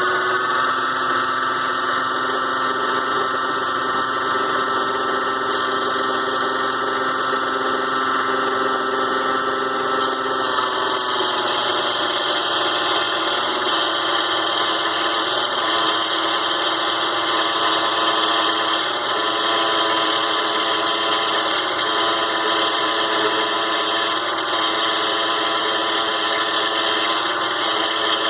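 Mini lathe's small DC motor and drive running at a steady speed, with a whine of several steady tones. About ten seconds in, the pitch drops slightly and then holds again.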